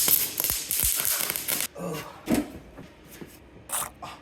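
Electric welding arc crackling, cutting off abruptly just under two seconds in; a brief vocal groan and a couple of short breathy sounds follow.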